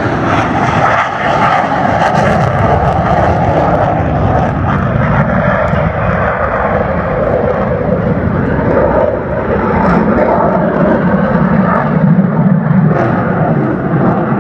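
Jet aircraft flying past, a loud continuous engine noise whose lower band drops in pitch over several seconds.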